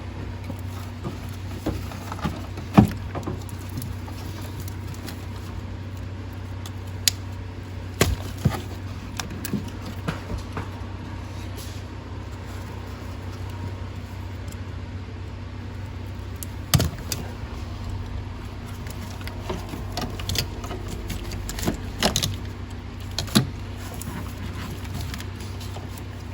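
Scattered sharp clicks and clinks of hand tools and metal parts being handled while working on a Ford 6.0L diesel engine, over a steady low hum.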